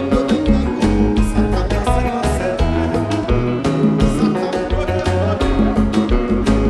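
Live band music with a steady drum beat, a prominent bass line and guitar.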